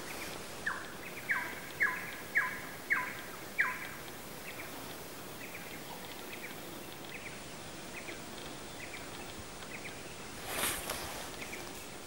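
A bird calling a quick series of about six sharp, falling notes, then fainter repeats of the same call, over a steady outdoor hiss. There is a short rush of noise near the end.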